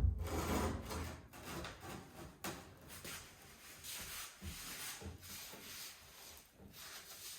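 Irregular scraping and rubbing strokes of hand work on tile and mortar, with a sudden loud knock at the very start.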